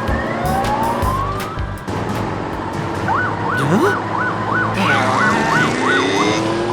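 Two-tone siren switching quickly back and forth between a high and a low pitch, about two and a half times a second, for some three seconds in the middle. It plays over background music with a few rising whistle-like glides.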